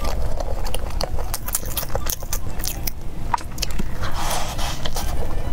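Close-miked biting and chewing of a fried chicken burger: many small crunchy crackles from the breaded chicken patty and bun, with a denser crunch from a fresh bite about four seconds in.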